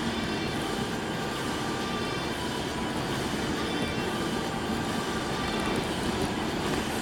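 Steady rumble of tyres and engine heard from inside a moving car driving on snowy streets.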